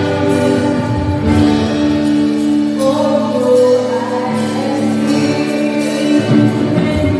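Live gospel worship music: the worship team singing over sustained keyboard chords.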